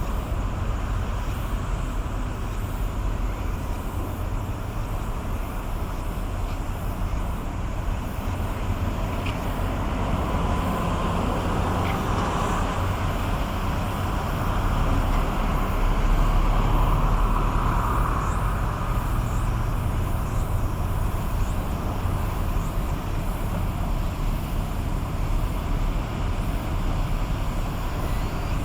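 Steady low engine rumble over outdoor noise, swelling a little past the middle of the stretch and then easing again.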